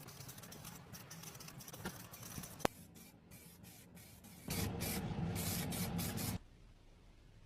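Aerosol spray paint hissing in one steady burst of about two seconds, just past the middle, preceded by light handling sounds and a single sharp click.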